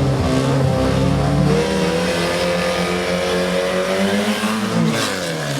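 Drag-racing car engines running with the revs held steady; the pitch shifts about a second and a half in and falls near the end.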